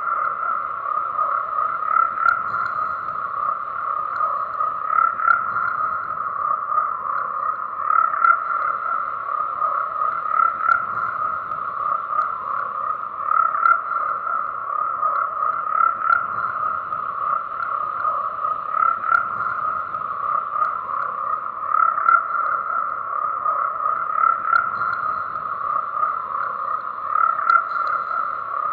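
Chorus of many frogs croaking in a dense, unbroken stream of pulsing calls, one chorus pitched higher and another lower.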